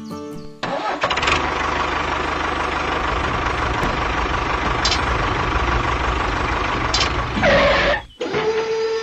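A mini tractor's motor running steadily. It starts abruptly under a second in and cuts off suddenly near the end, followed by a single steady tone.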